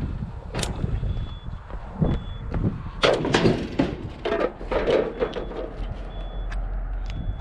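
Scrap metal, such as old appliance panels, being handled, with scattered knocks and a run of clanking and clattering from about three to five seconds in, over a low steady rumble.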